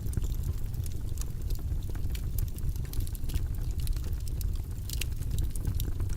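Steady deep white-noise background hum, with scattered small, irregular clicks on top.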